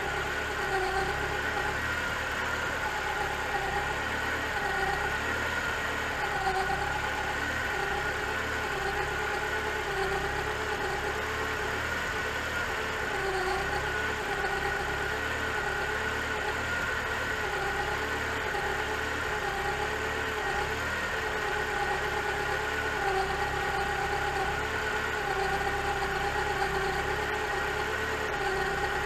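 Rebuilt 2.4-litre Mitsubishi Evo IX engine idling, with a whine from the timing belt that wavers in pitch about once a second.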